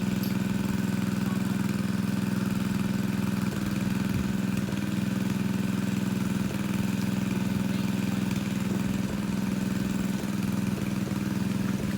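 Engine-driven water pump running at a constant speed with a steady drone, pumping a fish pond dry.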